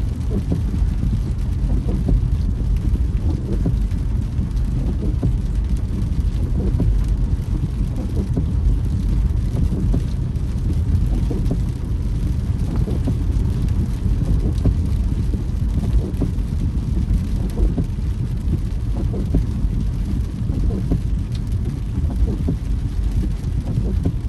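Car driving in the rain, heard from inside the cabin: a steady low road and engine rumble with rain ticking and pattering on the body and windscreen.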